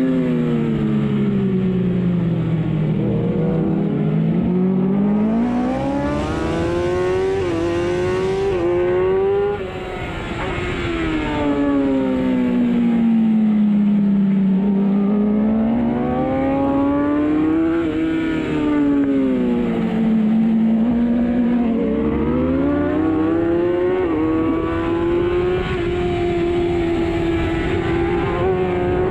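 Superbike engine heard onboard at racing speed: revs fall away under braking, then climb in steps through quick upshifts, fall and climb again through the corners, and hold steady near the end. Wind rushes over the microphone throughout.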